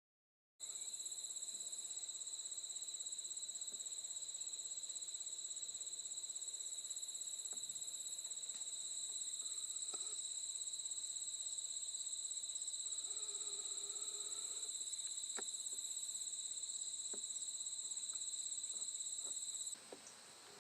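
Insect trilling in one steady, unbroken high-pitched tone; it starts abruptly just after the start and cuts off abruptly near the end.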